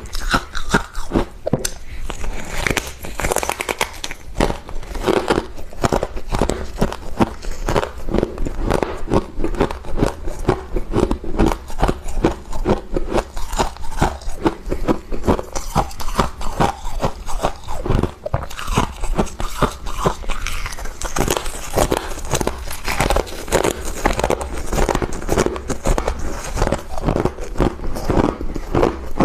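Close-miked crunching and chewing of a mouthful of freezer frost, with scraping: many rapid, irregular crunches throughout.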